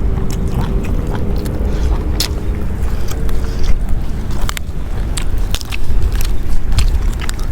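Close-up eating sounds: irregular sharp crunches and clicks of someone chewing crisp food, over a steady low rumble.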